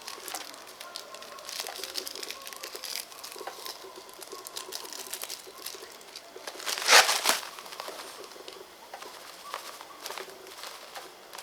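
Close-miked eating sounds: wet chewing, smacking and crackly mouth noises, with one louder burst about seven seconds in.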